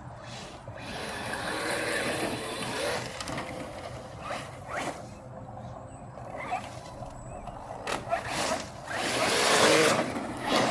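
Arrma Mojave 4S RC truck driving on dirt: swelling bursts of tyre and gravel noise as it speeds past, with a few short knocks in between, loudest near the end.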